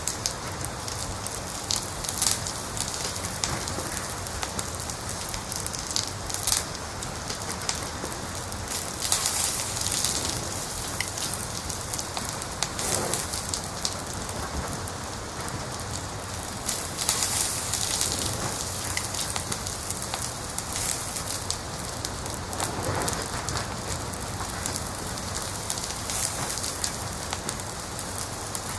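Wood fire crackling steadily, with constant small pops and a few brief louder bursts of crackle and hiss.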